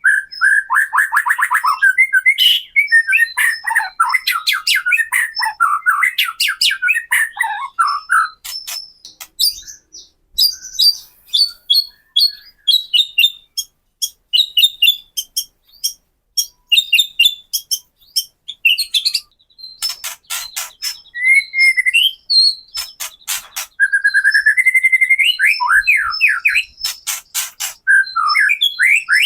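White-rumped shama (murai batu) singing: loud, varied whistled phrases mixed with rapid runs of harsh rattling clicks, the aggressive 'kretekan' calls. The whistling thins out to mostly clicks and high notes through the middle, then comes back strongly near the end.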